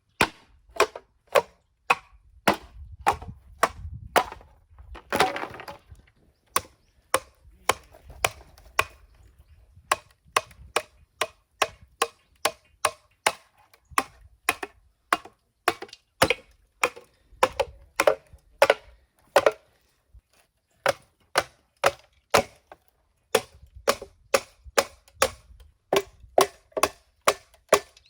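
Bamboo being chopped and split, with a rapid, regular run of sharp, hollow strikes about two to three a second and a longer splitting crack about five seconds in.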